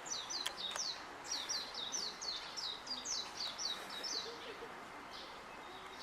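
A bird calling a quick run of short, high, falling notes, about four a second, with a brief break about a second in. The calls stop a little after four seconds. There is a sharp click about half a second in.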